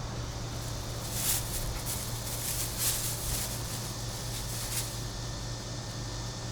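A brush drawn through a dog's fur in a series of quick, hissy strokes, clustered in the middle few seconds, over a steady low hum.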